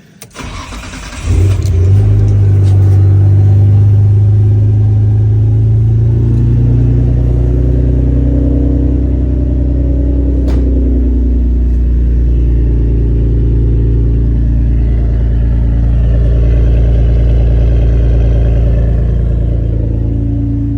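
Nissan GT-R's engine running loudly and steadily with a deep drone; it comes up suddenly about a second in. A single sharp click sounds about halfway through.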